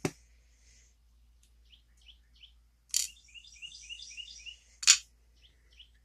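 A bird singing a quick run of about seven down-slurred chirps, with a few single chirps before and after. Sharp clicks come at the start, about three seconds in, and loudest just before the end.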